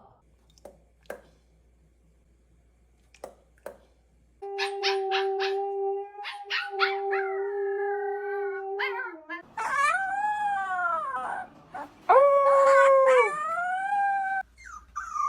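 A dog howling: a long, steady held note with quick yipping breaks over it, then drawn-out wavering howls that slide up and down in pitch. The first few seconds are near silent apart from a few faint clicks.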